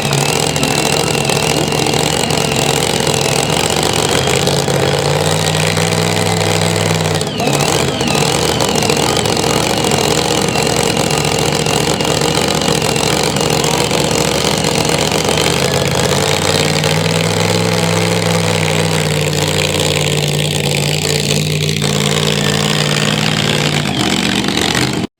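A high-horsepower pulling engine running hard under load during a sled pull. It stays loud and steady, its pitch rising and falling a little, with a high wavering whine over it.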